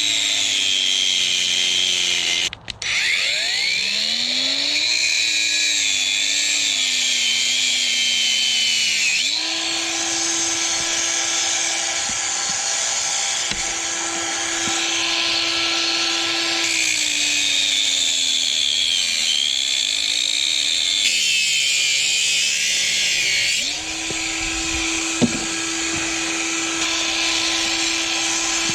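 Power tool cutting up a steel shopping trolley. The motor's pitch sags and a high metal squeal wavers while the blade bites, about 0–9 s and 17–23 s. Between cuts the motor runs free at a steady higher pitch, and it stops for a moment near 2.6 s.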